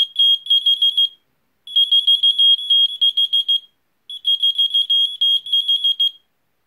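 Whistle-activated key finder keychain beeping loudly in response to a whistle: three bursts of rapid high-pitched pips, about five a second, each burst a second or two long with short gaps between.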